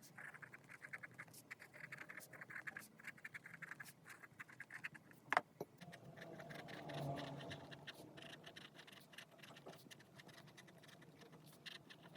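Pen scratching on paper in quick, repeated strokes, with one sharp click about five seconds in.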